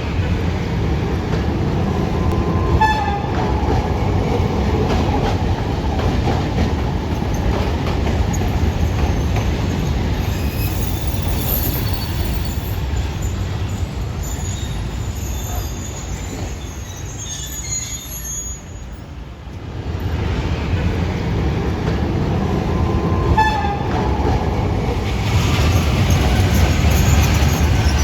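Alexandria's old electric tram running on its rails: a steady rumble with a high wheel squeal about halfway through. The sound eases off briefly about two-thirds of the way in, then builds up again.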